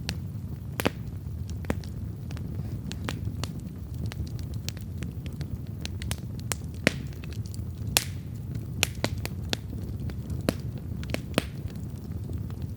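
Wood campfire burning and crackling: irregular sharp pops and snaps, a few of them louder, over a steady low rumble of the flames.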